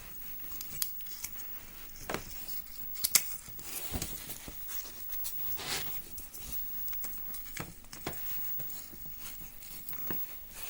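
A scrap of stiff insulation paper rustling and scraping as it is worked into a slot of an electric motor's stator, with scattered light clicks and a sharper tick about three seconds in.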